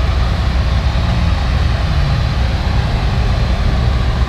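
Supercar engine running at low revs while the car moves slowly, a steady deep rumble with general street noise over it.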